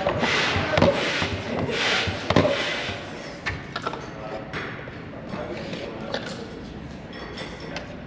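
Manual air pump inflating an inflatable kayak: rasping strokes of air repeat about every half second to a second, then the pumping stops about three seconds in and only faint, scattered sounds follow.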